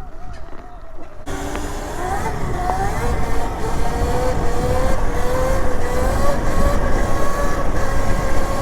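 Electric dirt bike motor whining under way, its pitch climbing slowly as the bike gathers speed, over a low rushing rumble. The sound gets suddenly louder about a second in.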